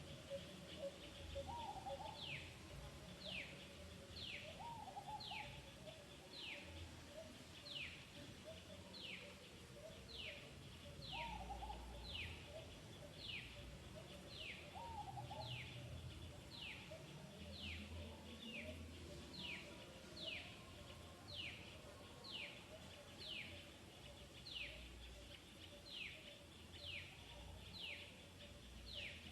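A bird calling outdoors: a short whistled note falling sharply in pitch, repeated steadily a little faster than once a second, starting about two seconds in. A few lower warbling calls come in now and then during the first half.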